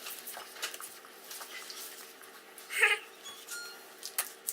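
Cards and foil booster packs being handled: scattered light clicks and rustles, with one brief high-pitched voice-like sound about three seconds in.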